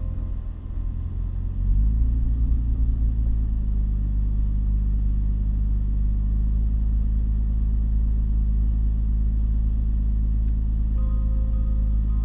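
Vehicle engine running under load while driving up a snowy road. The engine note sags, then picks back up about two seconds in and holds steady.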